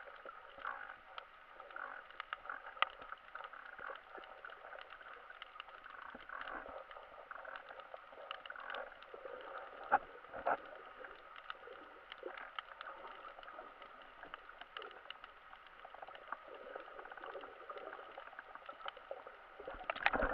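Muffled water sound, a steady hiss scattered with many small clicks and crackles, and one louder knock about halfway through.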